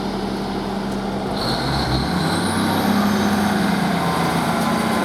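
Train running at the platform: a steady engine drone that shifts in pitch about two seconds in, with a high whine rising soon after.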